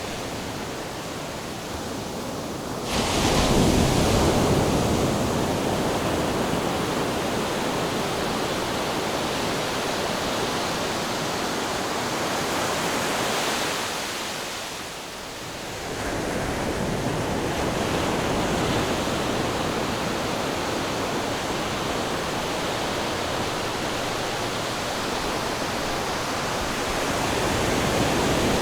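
Ocean surf: a continuous wash of waves with a wave breaking suddenly about three seconds in, a brief lull near the middle, and the surge building again after it.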